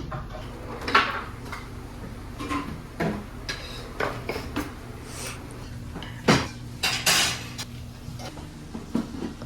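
Dishes and metal cutlery clinking and clattering, a string of separate knocks, loudest about a second in and twice around six to seven seconds in, over a low steady hum.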